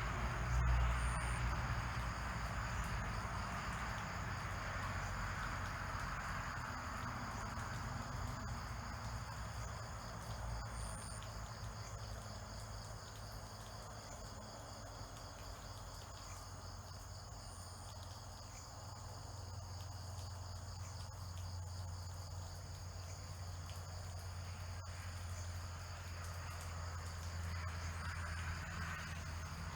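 Steady, high-pitched chorus of insects singing without a break, with a few brief higher chirps over it and a low rumble underneath.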